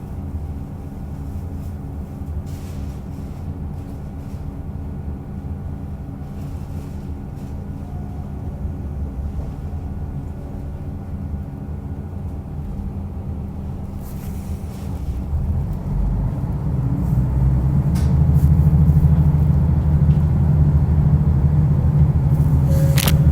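Diesel railcar running on the line, heard from inside: a steady low engine hum with rail noise. About fifteen seconds in it grows louder and stays louder, as the engine is put under more power.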